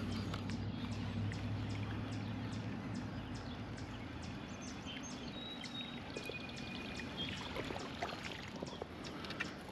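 Water running steadily, with a low hum that fades out about four seconds in, scattered small clicks, and a few brief high chirps in the middle.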